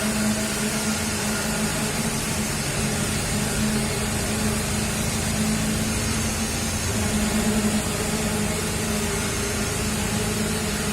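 Putzmeister truck-mounted concrete pump running steadily, its engine holding a constant drone with a strong low hum, at work pumping concrete.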